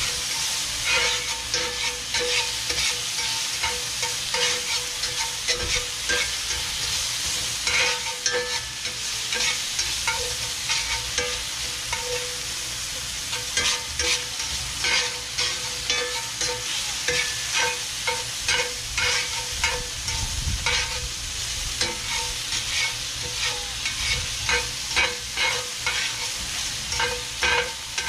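Dove breasts sizzling in oil in a very hot cast-iron skillet, stirred and turned with a metal spatula that scrapes and taps against the pan many times, some taps with a short ring.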